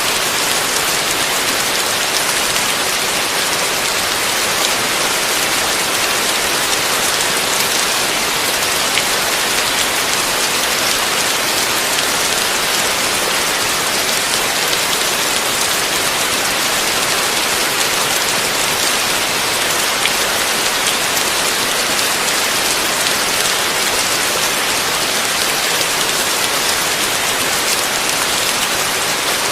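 Heavy rain falling steadily, a dense, even hiss of countless drops with no thunder.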